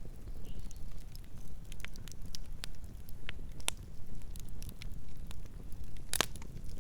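Wood campfire burning with a steady low rumble and irregular crackles and pops, the loudest pop about six seconds in.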